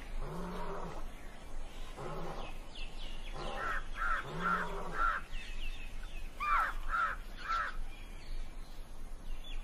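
A bird cawing: a run of four quick calls, then three more a little later, with a few lower drawn-out calls near the start and faint high chirps.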